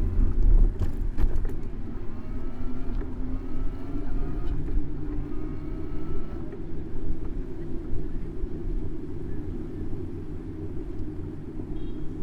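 Street traffic heard from a bicycle-mounted camera: a steady low road and wind rumble, with an engine note that rises in pitch several times over the first half.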